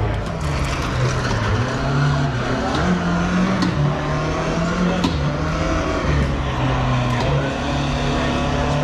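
Racing car engine running hard, its pitch stepping up and down repeatedly as it goes through gear changes and braking for corners, with a couple of sharp clicks about 3.5 and 5 seconds in.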